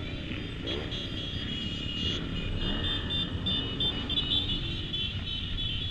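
Motorcycles riding in a convoy, engines revving up and down several times in the first second or so, over steady wind and engine noise. A series of short high-pitched tones repeats through the second half.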